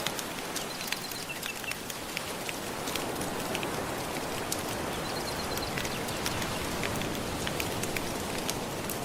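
Fire crackling with frequent sharp pops over a steady wash of gentle surf.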